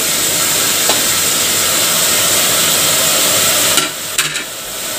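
Mutton, onions and oil sizzling in an aluminium pressure-cooker pot as chopped tomatoes are added, with a couple of light clicks. The sizzle drops suddenly near the end.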